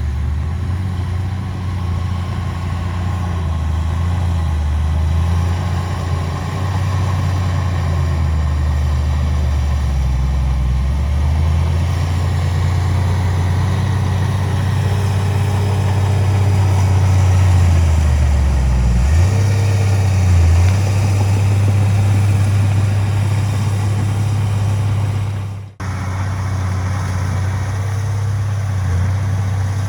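Heavy diesel engine of earthmoving machinery running with a low drone whose pitch shifts with the load and steps up sharply about 19 seconds in. The sound drops out abruptly for a moment near the end.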